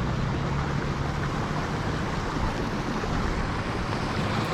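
Steady rushing noise with a faint low hum underneath, like wind on the microphone while travelling.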